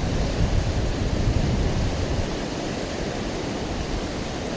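Steady rushing of a river in flood, with gusts of wind buffeting the microphone during the first two seconds or so.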